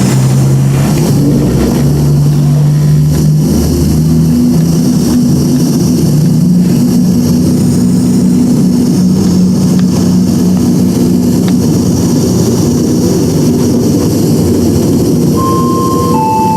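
Underfloor diesel engines of a CrossCountry Voyager train heard from inside the carriage, running hard as the train pulls away; the engine note steps up about a second in and then holds steady. Near the end a two-note falling chime sounds.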